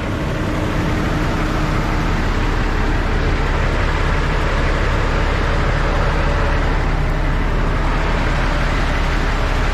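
Heavy truck's diesel engine running steadily, a constant low drone under broad noise.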